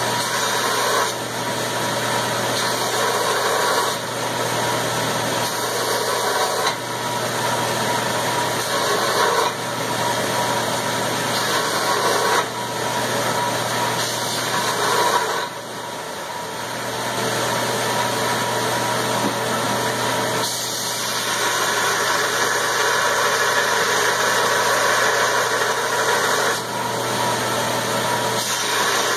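Steady shop-machine noise. In the first half it swells and then drops off sharply about every three seconds, and after that it runs more evenly.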